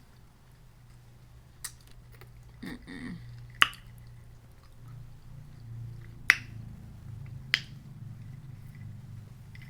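A person chewing food close to the microphone, with four sharp clicks spread through the chewing.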